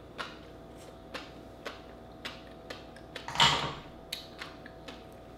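Close-miked mouth sounds of chewing a raw oyster topped with fish roe: sharp wet clicks and pops about every half second, with one louder, longer wet sound about three and a half seconds in.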